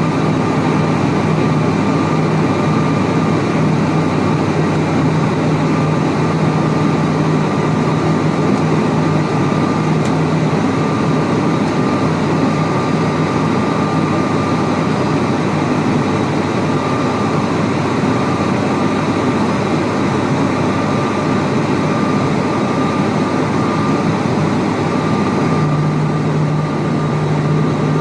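Cabin drone of an ATR42-600's Pratt & Whitney PW127M turboprop engines and propellers in flight, a steady roar with a steady propeller hum. A low hum in the drone fades about a third of the way in and comes back near the end.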